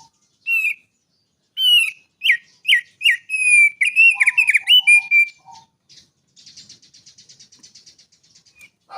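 A songbird singing: a run of loud, sharp whistled notes, several sliding down in pitch, for about five seconds, then a quieter fast trill of rapidly repeated notes for about two seconds.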